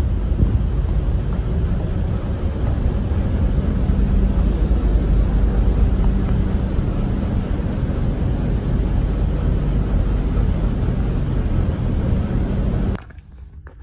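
Steady low rumble of a passenger ferry under way, its engines droning with wind buffeting the microphone; it cuts off suddenly near the end.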